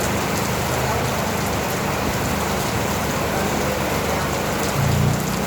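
Steady rain falling and splashing on surfaces. Under it runs a low hum, which swells briefly near the end.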